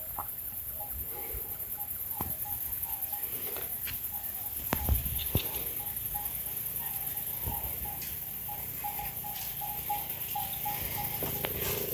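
Footsteps crunching through dry leaves and twigs in brush, with scattered snaps and knocks, over a steady high-pitched buzz and a rapidly repeated chirp.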